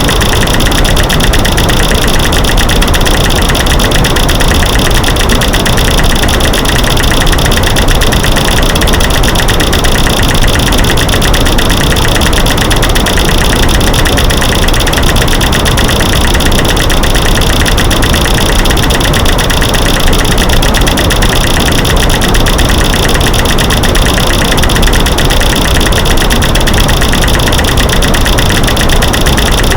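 Loud, continuous masking noise: a dense, rapid clatter of light-switch clicks, snapping sticks and knocking rocks layered over a white-noise hiss, unchanging throughout.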